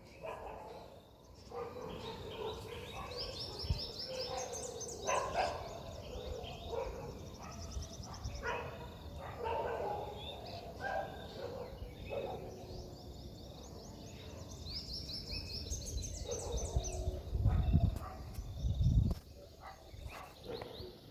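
Wild birds calling in the open, with one bird's song of quick high notes in a rising run, heard twice: a few seconds in and again about two-thirds of the way through.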